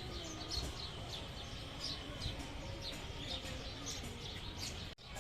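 Small birds chirping repeatedly, many short quick down-slurred chirps, over a steady low outdoor rumble. The sound cuts out sharply for an instant near the end.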